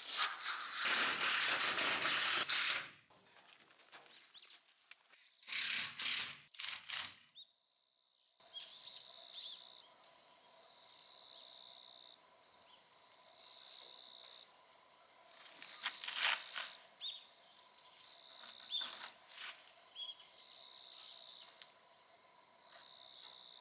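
Birds chirping outdoors in short, repeated high calls, after a loud burst of noise in the first few seconds.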